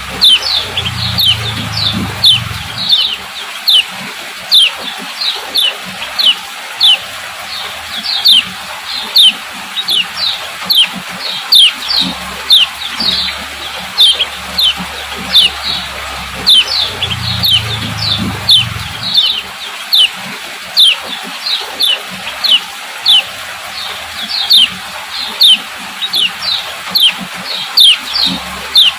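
Female kecial kuning (yellow white-eye) giving its repeated 'ciak ciak' call: short, sharp, falling chips, one to two a second without a break. The call is the kind played to stimulate male birds into singing.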